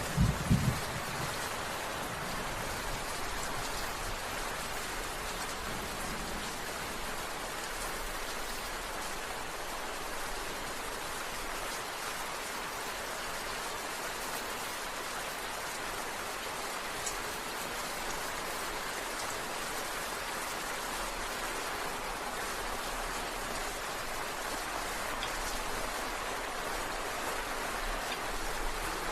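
Steady rain falling and pattering on surfaces, an even hiss throughout. In the first second a few loud low thuds of thunder fade out.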